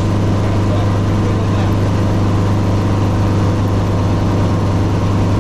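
Helicopter running with a loud, steady drone: a strong low hum with a stack of even tones above it, holding steady.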